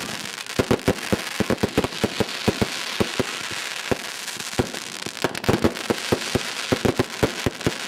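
Fireworks display: rapid, irregular bangs and pops, several a second, over a continuous hissing crackle.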